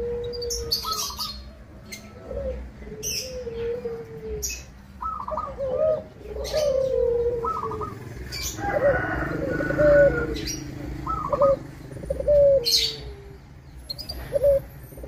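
Zebra dove (perkutut) cooing: a repeated run of short rolling coos, each ending in a falling note, with brief high-pitched ticks scattered between them.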